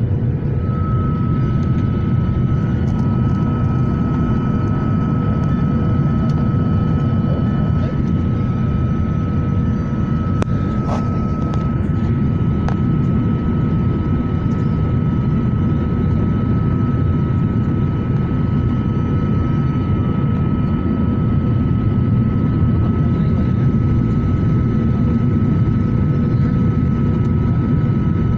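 Airliner engines and airflow heard from inside the cabin on the approach to landing: a steady, loud rumble with a constant high whine over it.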